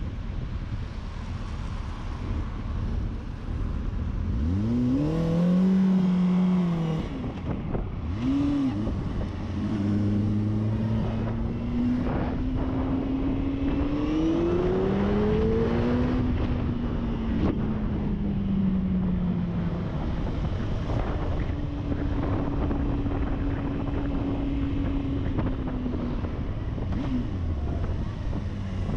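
Motorcycle engine under way, its pitch climbing steeply about four seconds in, climbing again through the middle, then falling away and holding steady near the end, over a steady rush of wind noise.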